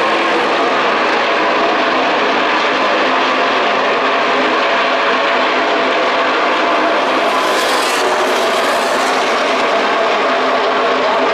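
NASCAR Camping World Truck Series race trucks' V8 engines running at racing speed, a loud, steady drone from the field on track, brightening for a couple of seconds about seven seconds in.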